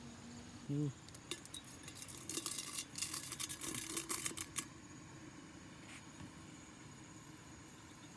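A brief low grunt, then about three seconds of rapid crackling and clicking, like something being handled or brushed through, over a faint steady high-pitched insect drone.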